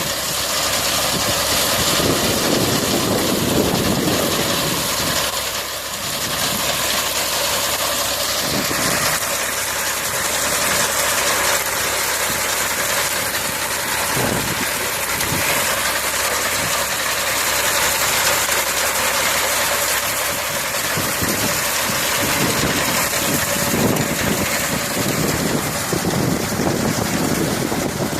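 Tractor engine running steadily, driving a front-mounted reaper binder through its power take-off.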